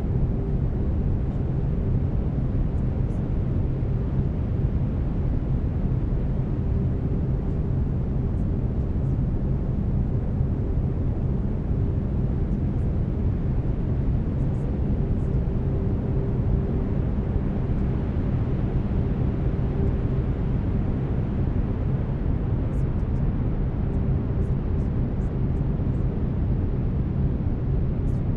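Brown noise: a steady, deep, rumbling hiss, strongest in the lows, with faint steady low tones underneath from the binaural beats.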